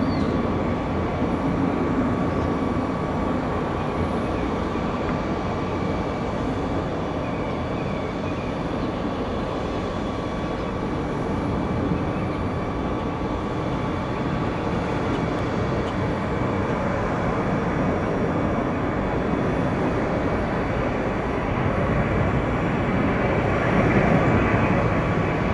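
Jet airliner engines running: a steady rumble with a thin, steady whine above it, growing a little louder near the end.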